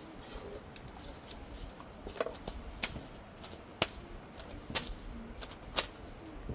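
Irregular sharp clicks and taps, a handful of louder ones spaced about a second apart in the second half, over faint background noise.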